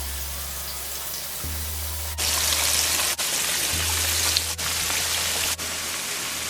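Flour-battered butterfish deep-frying in hot oil: a steady sizzling hiss that jumps in level abruptly several times.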